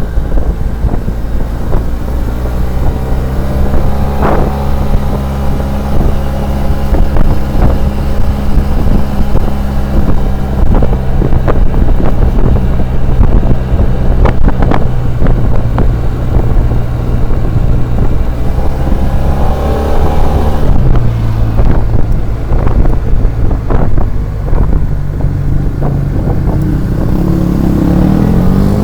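SYM Maxsym TL 500 maxi-scooter's 465 cc liquid-cooled twin-cylinder four-stroke engine running steadily under way, with wind buffeting the microphone. The engine note drops a step about two-thirds of the way through.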